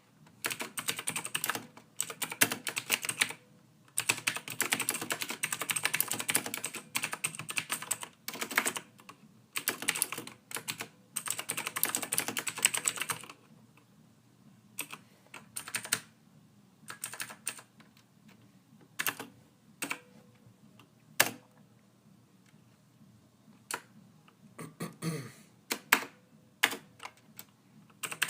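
Soft typing on a computer keyboard: quick, dense runs of keystrokes for roughly the first half, then slower, scattered single key presses.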